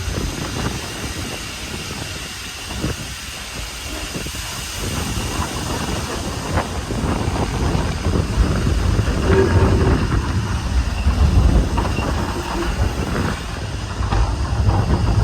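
Standard-gauge train running downhill, heard from on board: the wheels rumble and clank over the rails, getting louder from about halfway through, with a brief squeal near the middle.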